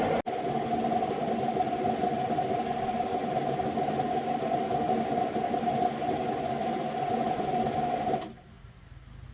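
A motor running with a steady hum, broken by a split-second dropout just after the start and cut off abruptly about eight seconds in.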